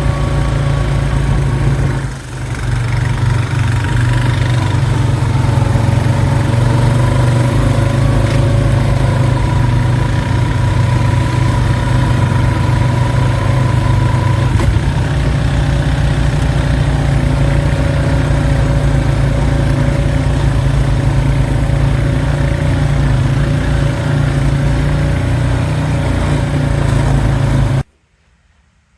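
Allis-Chalmers tractor engine running steadily while driving, with a brief dip about two seconds in; the sound cuts off abruptly near the end.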